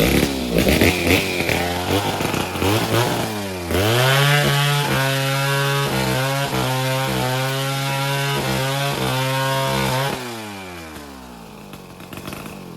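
Chainsaw bursting into sound, revving up to a high steady speed about four seconds in and running hard for several seconds, then dropping off and fading near the end.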